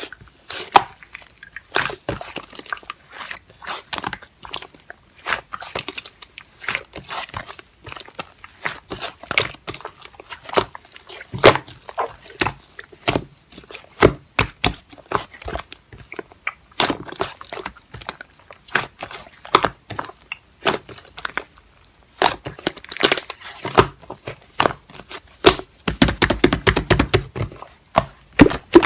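Slime being squished, stretched and pressed by hand, giving an irregular run of crackling and popping clicks, with a fuller, louder stretch near the end.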